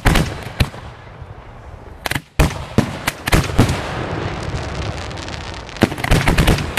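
Aerial fireworks shells launching and bursting in quick succession: a run of sharp bangs over continuous crackling, ending in a rapid cluster of bangs.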